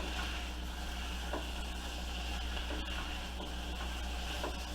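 Chicken and onion frying in oil with flour just stirred in, a steady sizzle as the flour cooks off its raw taste, with a few faint taps and a low hum underneath.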